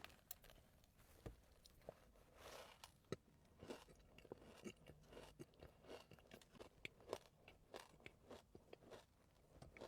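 Faint, close-up chewing and biting of a pistachio-filled Dubai donut: irregular soft crunches and wet mouth clicks.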